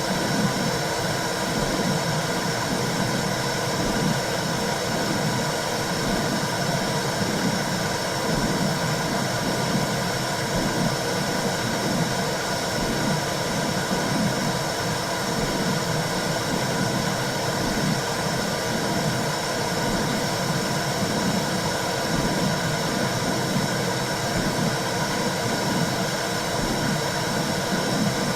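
Womb sound for calming a newborn: a steady whooshing noise with a soft, regular pulse about once a second, like a heartbeat heard through the body.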